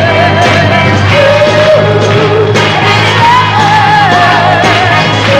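A female lead singer sings a Motown pop song live with an orchestra backing her. She holds long, wavering notes over a steady bass.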